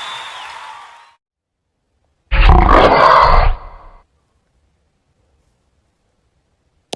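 Music fading out, then about two seconds in a single loud, rough roar lasting just over a second.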